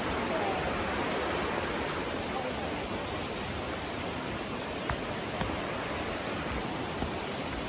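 Steady rush of a river's flowing water, an even hiss, with a few faint taps in the second half.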